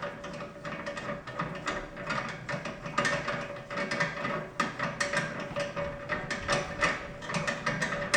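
Rapid irregular metallic clicking and clatter of hand tools working on the parts of a Rubi TS 50 tile snap cutter as its handle is taken off, over a faint steady hum.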